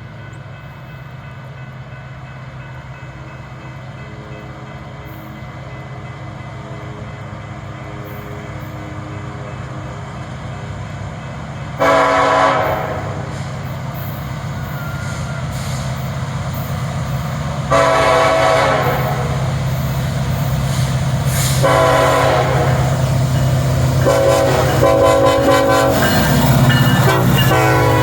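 Loaded BNSF coal train led by an EMD SD70ACe locomotive: the steady drone of its diesel engines grows louder as it approaches. The lead unit sounds its air horn in the grade-crossing pattern: two long blasts, a short one, then a long one near the end.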